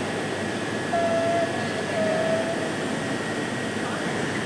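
Steady railway noise at a station platform, a continuous rumble and hiss, with two short squealing tones about a second and two seconds in.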